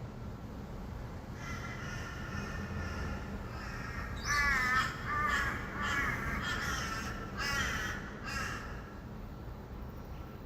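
Harsh, raspy bird calls: a few faint ones, then a louder series of about six squawks from about four seconds in, over a steady low hum of distant traffic.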